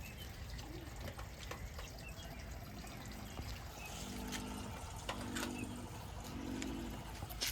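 Water trickling steadily, with a few short, faint low tones and light clicks in the second half.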